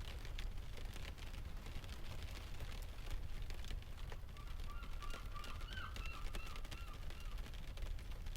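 Mixed rain, ocean and fireplace ambience: a steady low rumble of surf under scattered sharp crackling ticks. Just past the middle, a bird calls for about two seconds.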